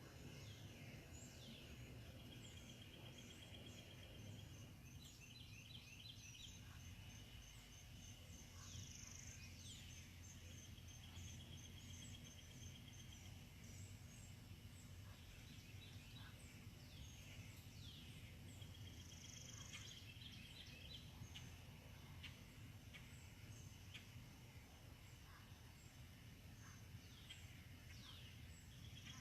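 Faint outdoor birdsong: several birds giving short downward-sweeping calls and repeated trilled phrases, over a steady low background rumble.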